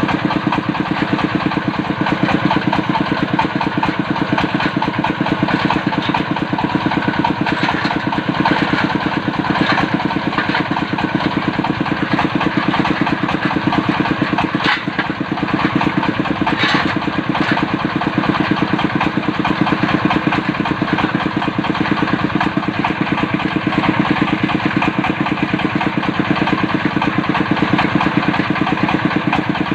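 Diesel engine of a water-well drilling machine running steadily, with a few short sharper noises around the middle.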